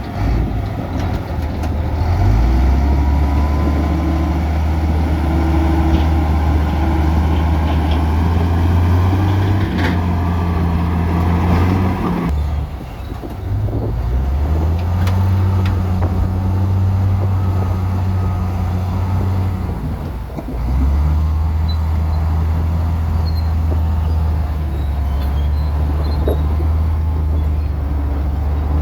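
Heavy construction machine's diesel engine running under load. Its deep note steps up and down in pitch as the throttle changes, easing off about twelve seconds in and again near twenty seconds before picking back up.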